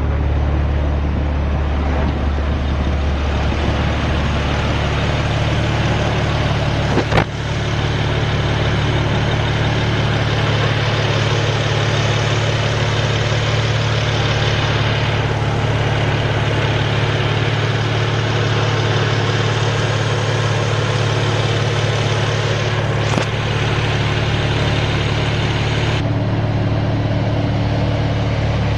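BMW 3 Series Coupe (E92) with a Remus aftermarket exhaust, engine idling with a steady, even low hum. A sharp click about seven seconds in and a fainter one near twenty-three seconds.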